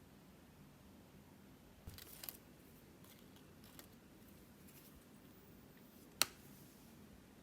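Quiet handling of snack packaging: a brief crinkle of plastic about two seconds in, a few faint ticks, then one sharp click near the end.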